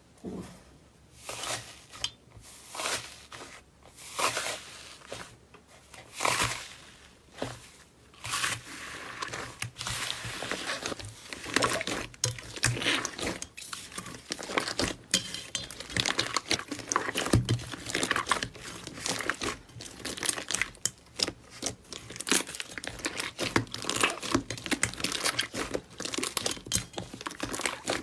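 Slime being squeezed and stretched by hand, crackling and popping. A few separate squeezes come about a second apart, then from about eight seconds in the crackling turns dense and continuous.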